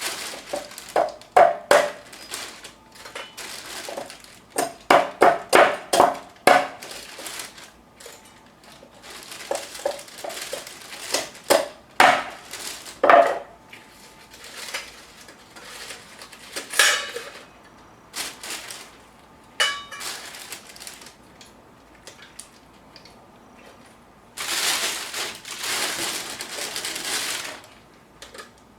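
Fire-making handling noise: a run of sharp metallic clinks and knocks with a short ring, mixed with rustling and crunching. A steady hissing rush lasts about three seconds near the end.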